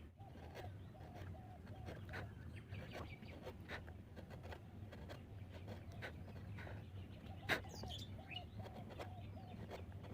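Short, sharp taps of a wood-carving chisel on wood, with one louder knock about seven and a half seconds in, over a steady low hum. Birds call repeatedly in the background.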